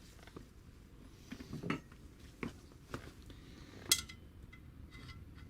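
Light metallic clinks and knocks as a steel scooter box exhaust is handled for inspection. There are a few separate sharp clicks, the loudest about four seconds in.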